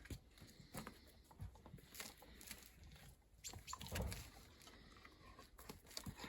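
Faint scattered taps and scuffs from a dog playing with a ball, its paws and the ball knocking on the ground, with a louder low thump about four seconds in.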